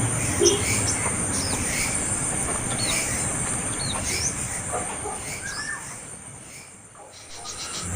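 Young bird's begging calls: short high chirps repeated about once a second over a steady hiss, the calls of a hungry fledgling asking to be fed.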